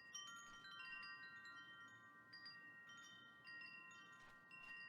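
Faint chimes tinkling: many light strikes at different pitches, each ringing on and overlapping the others.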